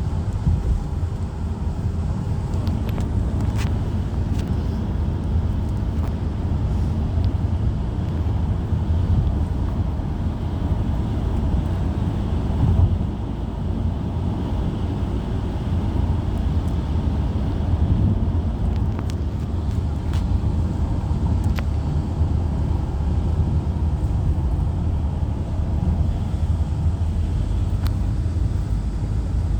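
Steady low rumble of a road vehicle driving, engine and tyre noise running evenly.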